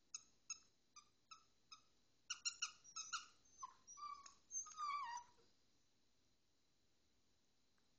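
Squeaky rubber duck toy squeezed in the bites of a dachshund puppy: five short, evenly spaced squeaks, then a quicker run of squeaks. Near the middle come a few longer, high whines that slide down in pitch.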